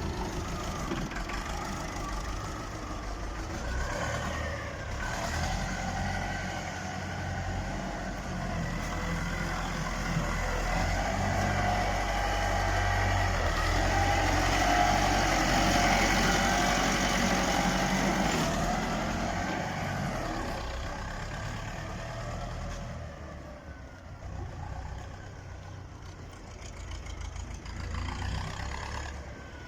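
Massey Ferguson 185 tractor's four-cylinder diesel engine running, growing louder to a peak about halfway through and then dying away in the last third.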